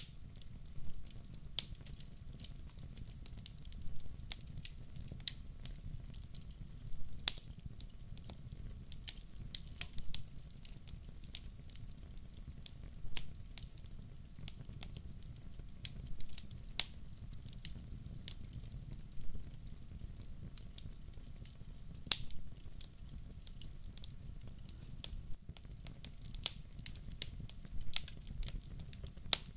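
Firewood burning in a fireplace: irregular sharp crackles and pops, bunched into short clusters now and then, over a steady low rumble of the fire.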